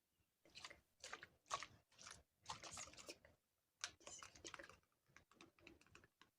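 Close-miked ASMR trigger sounds: an irregular run of short, crisp crackling and rustling noises.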